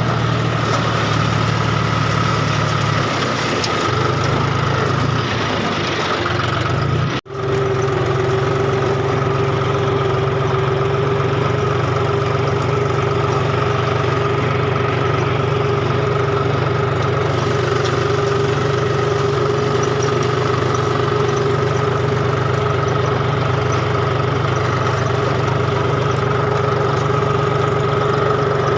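John Deere tractor's diesel engine running steadily. The sound cuts out for an instant about seven seconds in, then resumes with a steady whine over the engine note.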